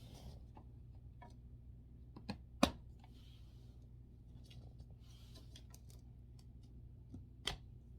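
Scattered light clicks and knocks of wooden drying-rack parts being handled and fitted together, the loudest about two and a half seconds in and another near the end, over a low steady hum.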